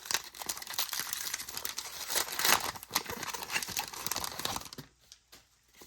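Foil wrapper of a Pokémon trading card booster pack crinkling and tearing as it is opened, with dense crackling that stops about five seconds in, leaving a few faint clicks.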